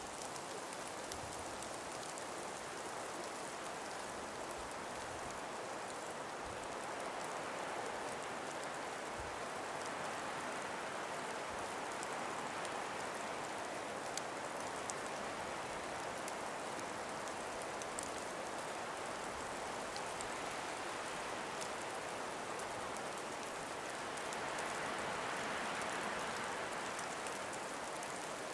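Gentle wind blowing through an ice- and snow-laden forest, a steady rush that swells twice, with faint scattered ticks.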